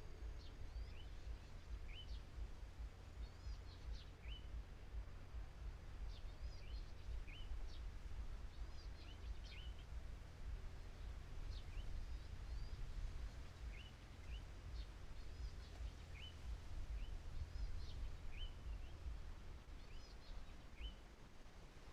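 Small birds chirping: short, high, separate calls, several at a time and a few every second, over a steady low rumble.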